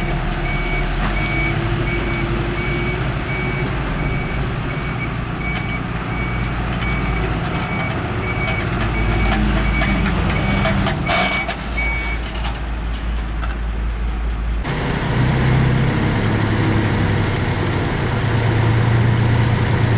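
A heavy construction vehicle's reversing alarm beeping rapidly, one high tone about three times a second, over a diesel engine running. The beeping stops about 12 s in, and the engine sound changes abruptly a couple of seconds later.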